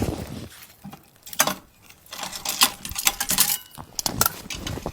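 Metal clinks and knocks of cookware being handled, coming in irregular clusters, with a brief thin ring late on.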